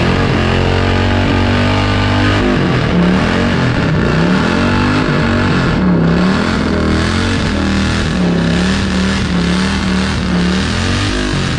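Motorcycle engine doing a burnout: it runs steadily at first, then from about two and a half seconds in it is revved hard, its pitch swinging up and down again and again.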